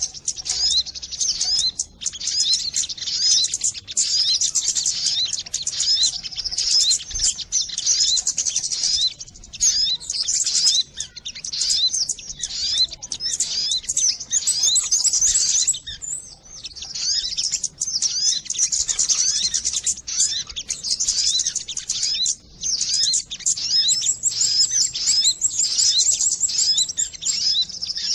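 Recorded lure calls of the sogon bird: dense, rapid, high-pitched chirping and twittering that runs on without a pause, played to draw sogon birds down.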